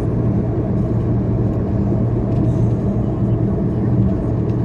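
Car engine and road noise heard inside the cabin of a moving taxi: a steady low drone with no change in pace.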